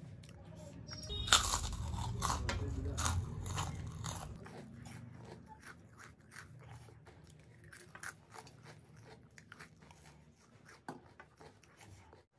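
Close-miked eating: crunching and chewing of food, loudest for about three seconds starting a second in, then softer chewing for the rest.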